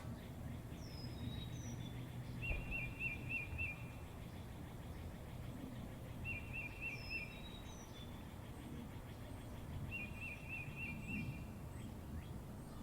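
Birds singing: one repeats a short phrase of four or five quick notes every three to four seconds, another gives brief falling whistles, over a steady low background rumble.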